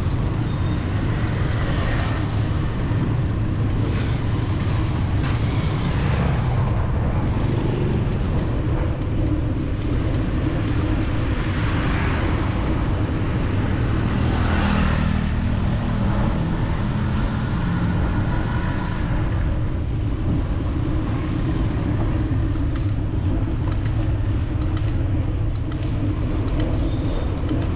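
City street traffic heard from a moving bicycle, over a constant low rumble. Vehicles pass close about 12 and 15 seconds in, and an engine's note stands out for a few seconds after the second pass.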